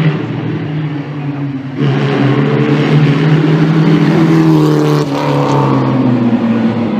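Classic racing car engine running hard under acceleration, suddenly louder about two seconds in; its pitch climbs, drops sharply at a gear change about five seconds in, then climbs again.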